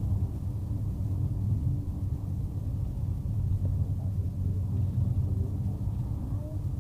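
Steady low rumble of a car driving, heard from inside: an even drone of engine and road noise with no change in pace.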